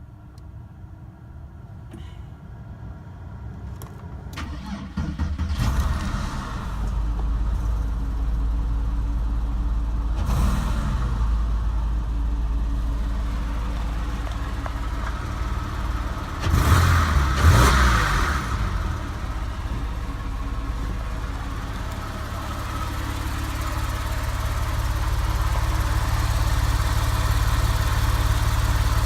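Porsche 997 911 Carrera's flat-six engine running through its stock exhaust. It builds up over the first several seconds, then runs steadily, with a brief louder surge a little past the middle.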